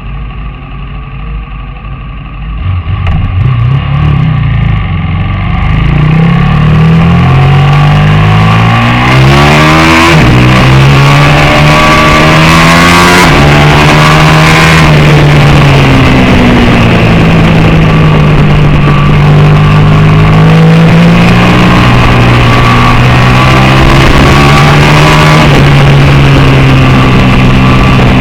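750 cc superbike-class racing motorcycle engine accelerating hard from about three seconds in, its pitch climbing and dropping with each gear change. It then runs at high revs to the end, the pitch rising and falling.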